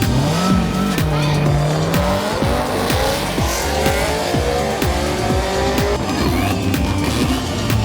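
Race car engine revving higher and higher as the car accelerates hard, mixed with background music.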